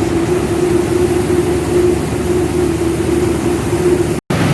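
Rice milling machinery running steadily: a loud, constant mechanical rumble with a steady hum. The sound cuts out completely for an instant near the end.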